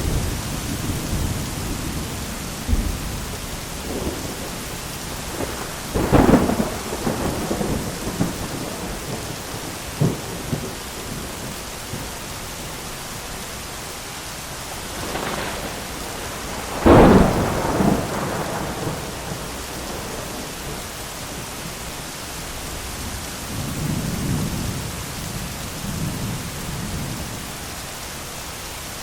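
Steady rain with thunder. Sharp claps about six seconds in and, loudest, about seventeen seconds in each roll off into rumbling, and lower rumbles swell near the end.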